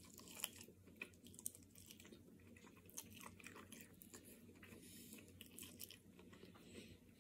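Faint biting and chewing on a crispy chicken wing as the meat is gnawed off the bone, with small crunches now and then.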